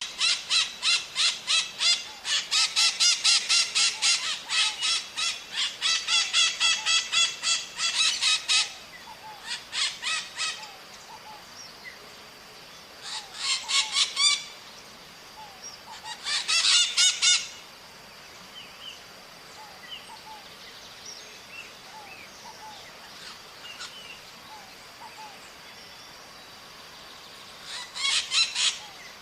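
Maritacas (small parrots) calling in rapid series of harsh, screeching notes, about four or five a second. A long bout fills most of the first nine seconds, then come several short bursts separated by pauses.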